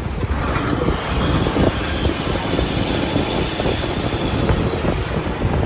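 Steady loud rumbling noise with wind buffeting the microphone, a hiss rising in about half a second in.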